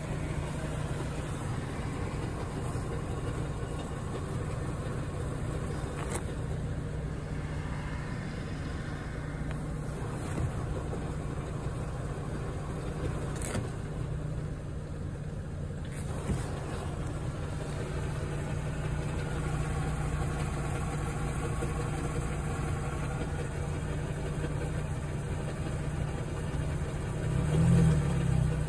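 Audi A3 Sportback 8P engine idling with an extra noise over the idle hum, the idling noise the owner is asking about. The noise drops away for a couple of seconds around the middle while the clutch pedal is pressed, then comes back. The engine is briefly revved near the end.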